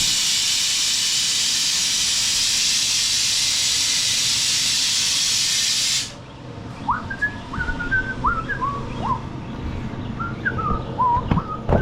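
Mower lift table being lowered, its air released in a loud, steady hiss that cuts off suddenly about six seconds in. Short chirping calls follow.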